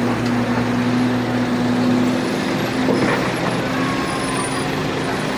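Heavy truck engine running steadily at an even pitch.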